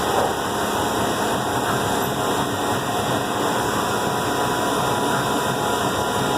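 CNC milling machine running steadily with the spindle turning, the drill feeding into the part to drill the bolt holes. A continuous machine noise with a few steady whining tones through it.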